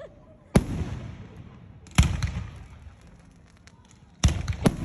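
Aerial fireworks shells bursting: four sharp booms, each trailing off in a rolling rumble, the last two close together near the end, with faint crackling in between.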